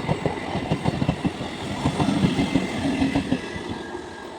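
Passing train's wheels clattering over the rail joints, growing fainter toward the end as the train draws away.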